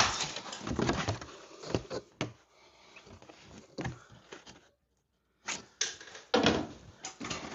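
Thin 20-gauge steel patch panel being handled and set against the car's rocker: irregular knocks, taps and scrapes of sheet metal, with a short silent gap about five seconds in.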